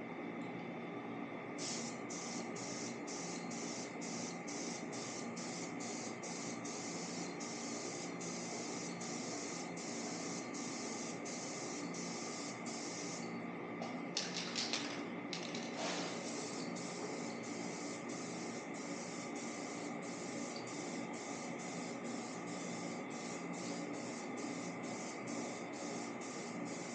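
Paint spraying in quick, regular pulses of hiss as another coat of orange is laid on, pausing briefly about halfway through, over a steady hum.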